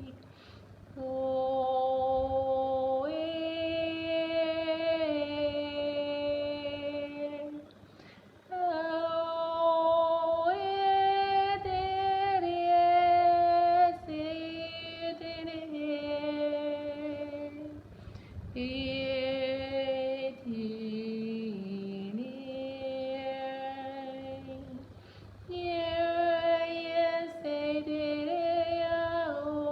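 A woman's voice singing long wordless held tones, each note stepping up or down from the last, with short pauses for breath between phrases. Past the middle one phrase slides down in pitch.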